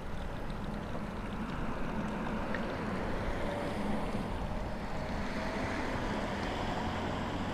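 Power-operated fabric soft top of a Mercedes-AMG SL 63 closing, its drive mechanism running steadily.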